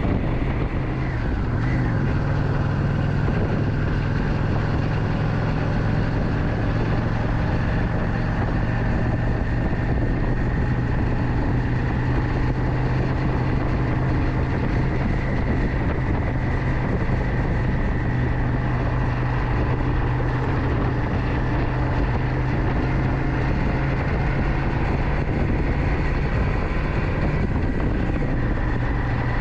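Motorcycle engine running steadily at a constant speed, an even drone that holds without revving up or down.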